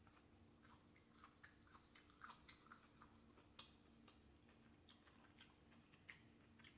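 Faint chewing: a person eating a mouthful of food, with irregular soft mouth clicks and smacks.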